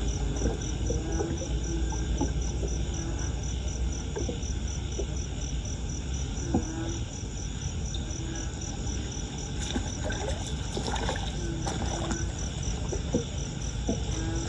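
Floodwater sloshing and draining, with scattered knocks and splashes. A high insect chirp pulses evenly, a few times a second, through most of it.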